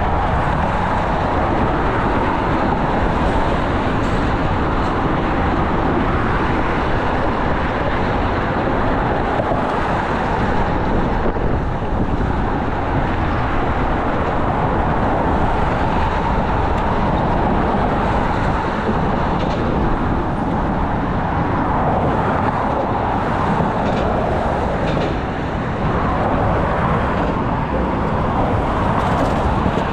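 Steady rumble and hiss of a moving vehicle, heard as continuous road noise.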